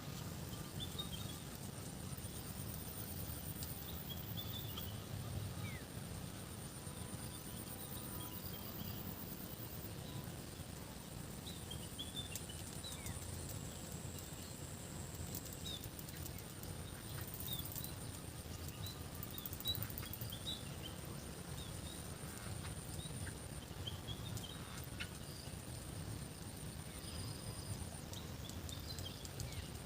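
Rural outdoor ambience: birds chirping briefly here and there over a steady high-pitched hiss and a low, even rumble.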